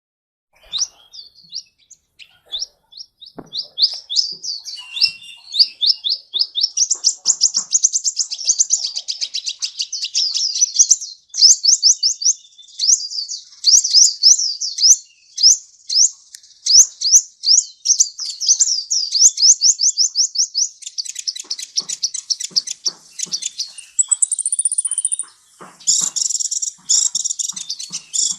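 Sunbird (kolibri) song: a long run of sharp, high chirps, several a second, growing faster and denser near the end, with one brief, high, buzzy note.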